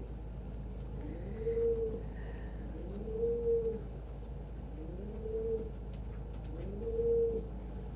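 Domestic pigeon cooing four times, about every two seconds, each coo rising into a briefly held note. Faint high chirps come from other birds.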